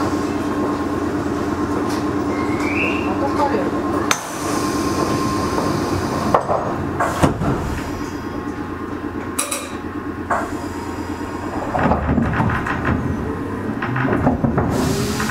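Meitetsu 6000-series electric train car heard from inside while running: a steady rumble with sharp clicks of the wheels over rail joints. Near the end the rumble grows louder and a motor whine rises in pitch as the train accelerates.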